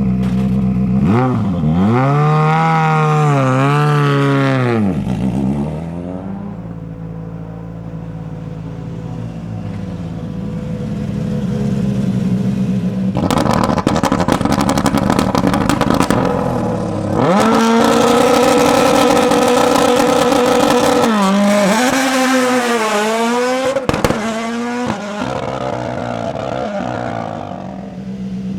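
Ford Puma Rally1's 1.6-litre turbocharged four-cylinder engine idling and being revved in sharp blips. A few seconds of rapid crackling come midway. The engine is then held at steady high revs before more blips and a drop back toward idle.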